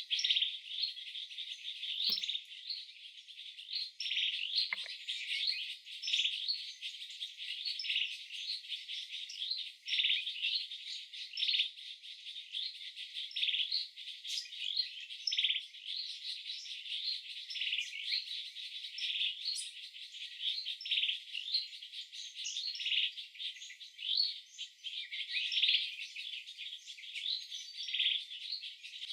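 Dense chorus of birds chirping continuously, high-pitched, with insects trilling underneath.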